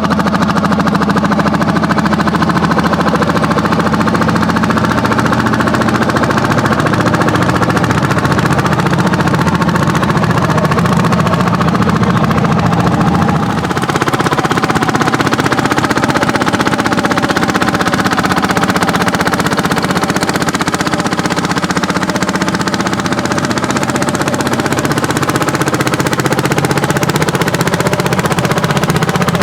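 Several Landini hot-bulb tractors' single-cylinder two-stroke engines running hard under plowing load, their rapid exhaust beats overlapping. The mix dips briefly and shifts in pitch about halfway through.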